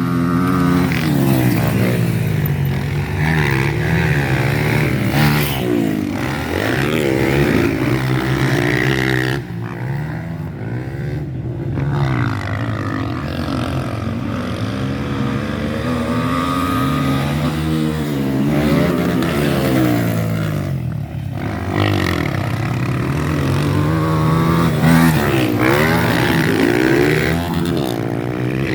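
Motocross bikes racing around a dirt track, their engines revving up and dropping back over and over as the riders accelerate, shift and pass. The sound dips briefly about nine seconds in and again around twenty-one seconds.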